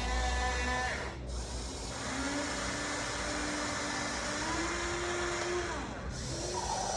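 Huina 1593 RC excavator's small electric motors whining as its functions are operated. The whine breaks off about a second in, starts again at a new pitch and steps higher, stops near six seconds, then starts up again.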